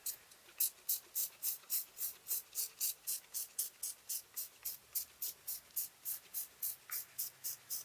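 Quick, even hissing strokes, about three or four a second, from hand-cleaning a car's engine bay with detail brush and cleaner spray.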